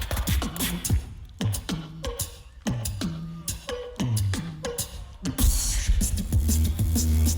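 Tag-team beatboxing: sharp snares and clicks with repeated falling bass sweeps, then, about five seconds in, a louder held deep bass drone takes over.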